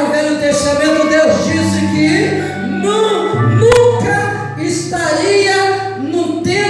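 Worship music: a woman singing over a held instrumental accompaniment, with a single sharp click about three and a half seconds in.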